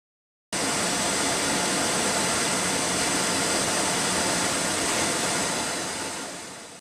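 Steady jet engine noise, an even rushing roar, that starts suddenly about half a second in and fades near the end.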